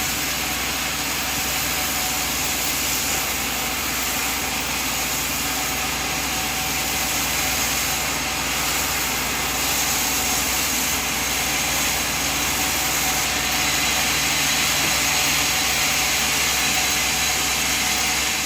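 Sawmill machine running steadily, an even mechanical hum and hiss with no change in load.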